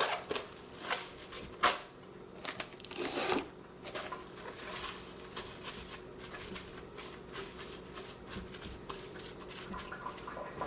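Plastic cling wrap crinkling as it is stretched over a bowl, with many quick sharp crackles.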